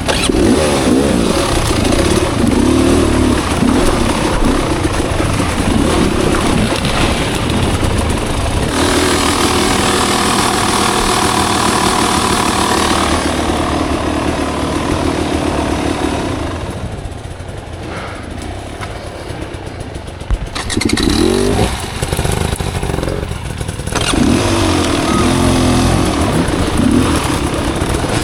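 Off-road motorcycle engine under way on a trail, its revs rising and falling as the throttle works, holding steady for a few seconds in the middle, then easing off before picking up again. A single sharp knock sounds about twenty seconds in.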